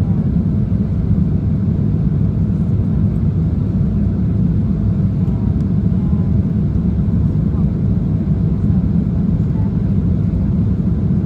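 Steady low roar of a jet airliner's engines and rushing air heard inside the passenger cabin in flight, with faint voices in the background.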